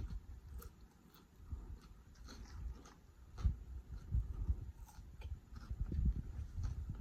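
Close-miked chewing of food, with soft irregular thuds and wet mouth clicks and smacks.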